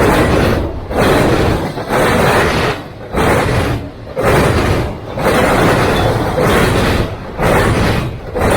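Freight train passing close by: a loud rumbling roar that swells and dips about once a second as the cars go past.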